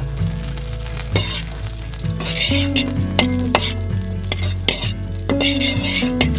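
Food sizzling in a pan, the sizzle swelling in bursts, with stirring and the clicks of a utensil, over background music with slow chord changes.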